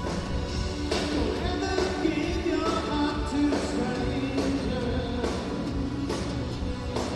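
A live synth-pop band playing in an arena, heard from the audience: drums, bass and keyboards, with a melody line over them.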